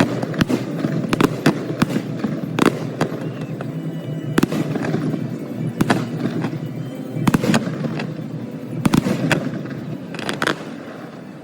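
Fireworks going off in a dozen or so sharp bangs at irregular intervals, some in quick pairs, over music. The sound fades down near the end.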